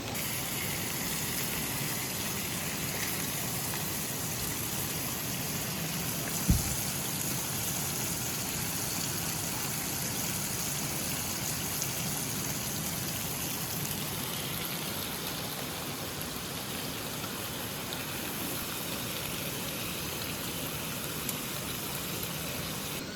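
Steady rush of flowing mountain-stream water, with a single sharp thump about six seconds in.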